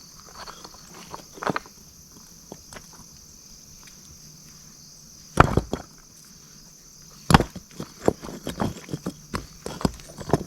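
Rocks being set into a dry-stacked stone wall, knocking stone on stone: a few scattered clacks, two sharp loud ones about five and seven seconds in, then a quick run of smaller knocks. A steady high insect drone runs underneath.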